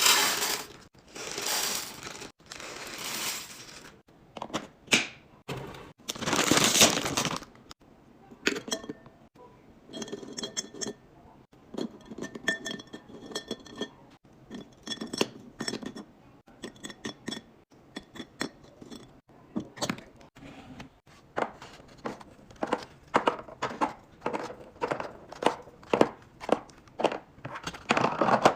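Items being handled and restocked: a few long rustling or pouring swishes early on, then a long series of clinks and knocks as containers are set down. Some of the clinks ring briefly, like glass.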